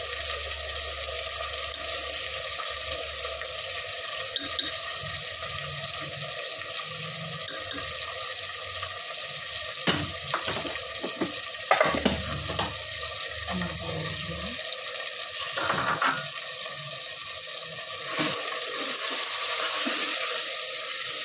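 Mutton, onions and spices sizzling in hot oil in an aluminium pressure cooker, a steady hiss, with a few sharp knocks around the middle and a spoon stirring near the end.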